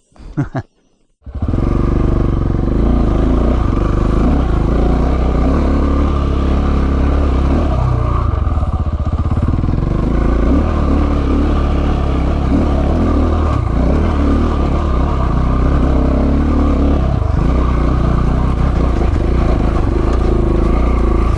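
KTM 690 Enduro's single-cylinder engine pulling steadily in first gear up a steep rocky hill climb, coming in abruptly about a second in and holding at an even level.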